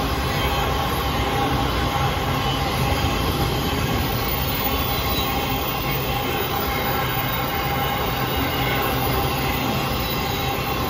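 Freight train rolling past at a steady speed: a continuous rumble of wheels on rail over a low engine-like hum, with a thin, steady squeal running through it.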